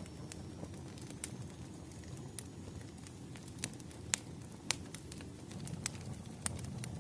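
Wood fire crackling: scattered sharp pops and snaps over a low, steady rumble of burning logs, with the loudest pops a little past the middle.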